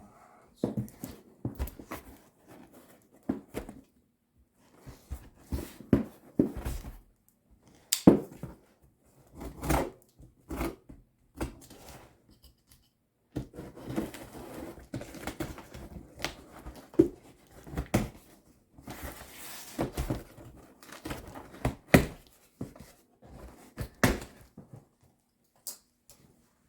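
Cardboard shipping box being handled and opened by hand: irregular knocks, scrapes and rustles of cardboard and packing, with a sharp knock about eight seconds in.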